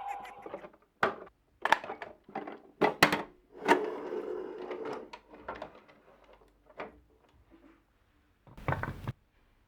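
Marbles clacking and rolling down a wooden marble run: a string of sharp clicks and knocks, a stretch of rolling rumble about four seconds in, then lighter ticks and a heavier knock near the end.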